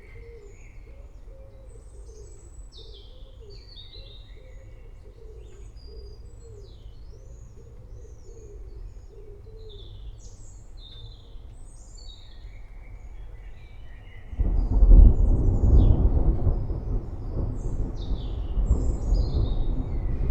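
Birds chirp and call over a low, steady rumble, with a soft low call repeating about twice a second in the first half. About fourteen seconds in, a loud roll of thunder breaks in suddenly and keeps rumbling to the end.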